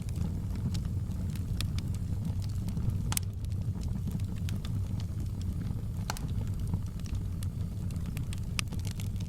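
Wood fire burning in a fireplace: a steady low rumble of flames with scattered sharp crackles and pops. Louder pops come about 3 seconds and 6 seconds in.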